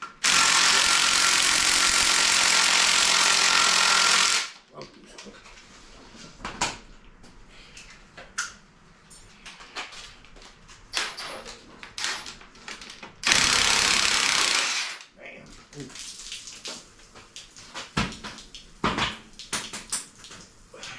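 A power tool runs in two loud steady bursts, about four seconds near the start and under two seconds about thirteen seconds in, with scattered clanks and knocks of tools and parts between.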